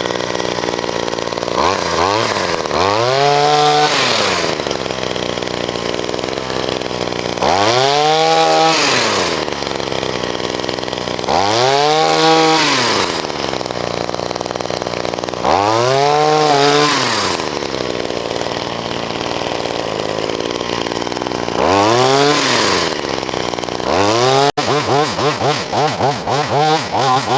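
Wild Badger 4-in-1 multitool's engine driving the hedge trimmer attachment through brush. It revs up and falls back about five times, a few seconds apart, then runs with a faster, uneven pulsing near the end.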